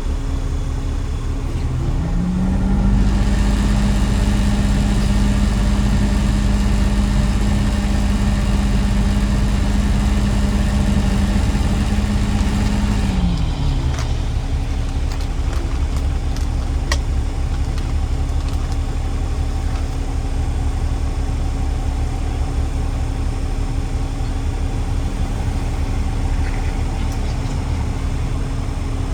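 Garbage truck engine running; about two seconds in it speeds up and holds a steady higher pitch for about ten seconds, then drops back to a lower, even running for the rest.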